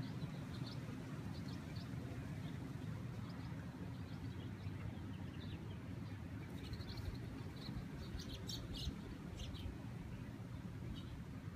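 Small birds chirping in short, high notes, busiest in the second half, over a steady low rush of wind.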